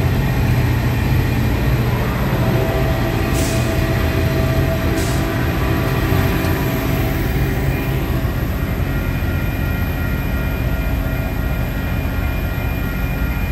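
Caltrain commuter train running through the station: a steady low rumble of the locomotive and the rolling bilevel cars, easing slightly in the second half. Two brief hisses come a few seconds in.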